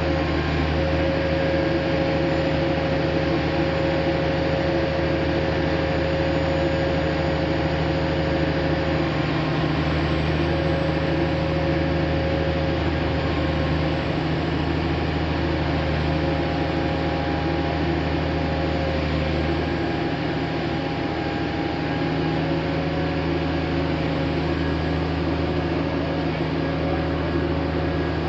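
Heavy diesel engine of a heavy-haul transporter running steadily, a constant deep drone whose low note shifts slightly a few times.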